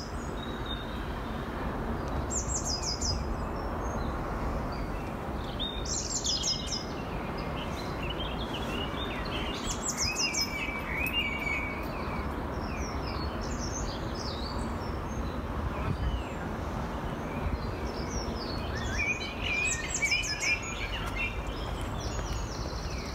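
Songbirds singing: a short, high trill comes back several times, with other birds' varied twittering between, over a steady hiss and low rumble.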